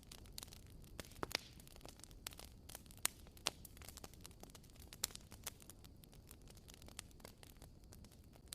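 Wood bonfire burning, crackling with irregular sharp pops and snaps over a faint hiss; the loudest pops come about three seconds in.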